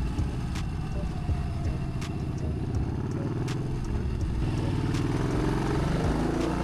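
2014 Yamaha Bolt XV950's air-cooled V-twin engine running under way, its pitch shifting with the throttle, with short sharp ticks about every second and a half.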